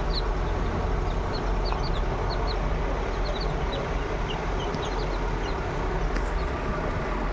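Chicks peeping: many short, high, falling chirps, several a second, over a steady rushing background noise.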